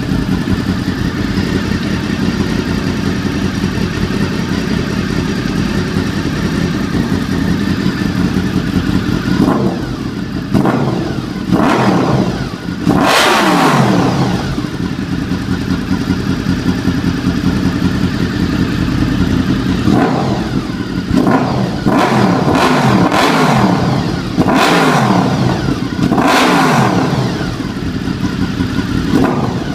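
Honda VFR800FI V4 engine through a Delkevic aftermarket exhaust, idling steadily and then revved in sharp throttle blips. A few short revs come about ten seconds in, the biggest about thirteen seconds in, and a run of repeated blips later on.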